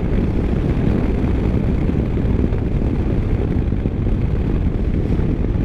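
Motorcycle riding at a steady road speed: an even rush of engine, tyre and wind noise that holds without change.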